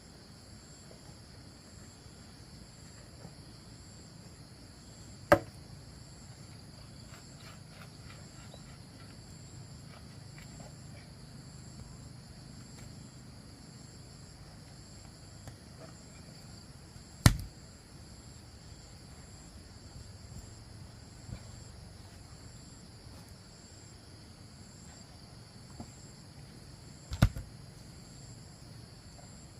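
Steady high-pitched insect chorus, one of its tones pulsing, broken by three sharp, loud knocks: about five seconds in, near the middle, and near the end.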